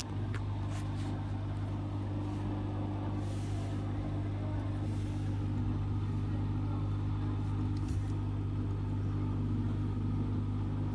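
Hotpoint WT761 Ultima washing machine spinning its drum with a steady motor hum, growing a little louder about halfway through.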